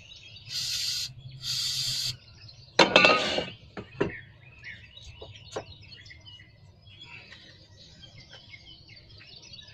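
Two short hisses, about half a second each, then a loud metallic clank with ringing and a few lighter clicks of metal parts being handled during engine head reassembly. Faint bird chirping throughout.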